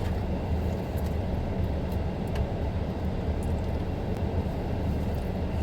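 Steady low engine rumble with no change in pitch, and a few faint light clicks over it.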